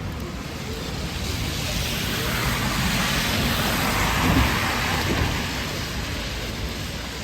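Rain on a wet city street: an even rushing hiss that swells over a few seconds, with a low rumble at its peak, then fades.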